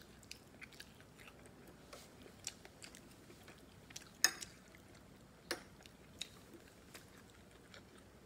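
Quiet chewing of a mouthful of mung bean stew and rice, with a few short clinks of a metal spoon against a ceramic bowl, the loudest about four seconds in.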